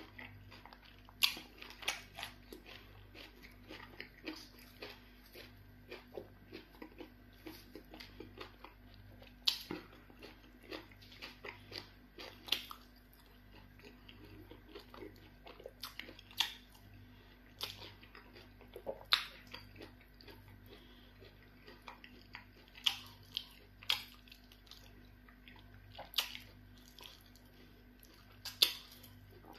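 A person eating pounded yam fufu and chicken in black soup by hand: chewing with wet mouth smacks and clicks at irregular intervals, a few of them louder, over a faint steady hum.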